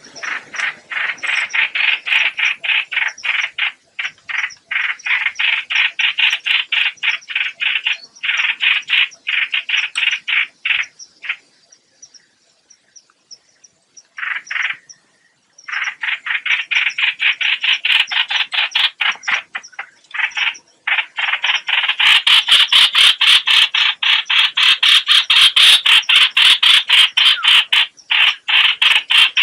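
Lure-call recording of a 'hoạch hoạch' bird calling: rapid, harsh repeated notes, about five a second, in runs of several seconds with short breaks and a longer pause around the middle.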